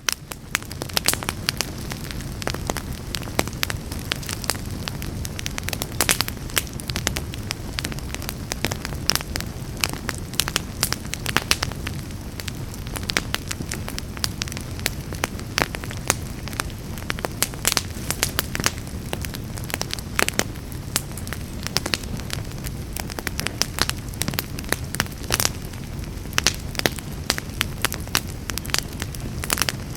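Fireplace fire burning and crackling, with frequent irregular sharp pops and snaps over a steady low rumble of the flames. It fades in from silence at the very start.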